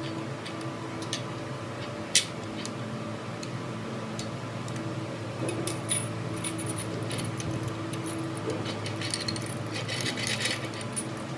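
Light metallic clicks and taps of metal parts being handled, a sharp one about two seconds in and clusters near the middle and end, over a steady machine hum.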